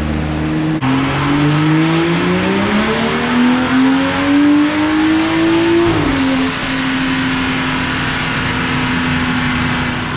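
Turbocharged BMW 335 with bolt-on modifications making a full-throttle pull on a chassis dyno: the engine note climbs steadily for about five seconds, then drops abruptly as the throttle is closed and runs on at a steady lower pitch.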